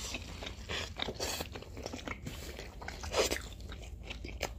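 Eating sounds from biting into and chewing gyro pitas: irregular soft crunches and wet mouth clicks, with a somewhat louder bite about three seconds in.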